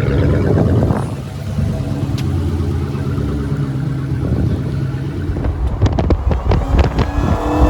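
Car engine running with a steady low rumble, with some wind on the microphone; in the last two seconds a quick series of sharp clicks comes over it.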